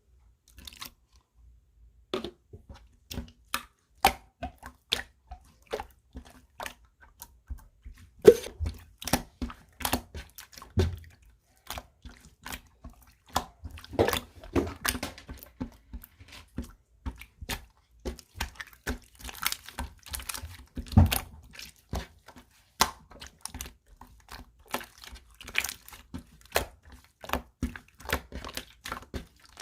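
Clear slime being pressed, poked and stretched by hand, making an irregular run of sticky clicks, pops and squelches, a few a second, with louder pops here and there.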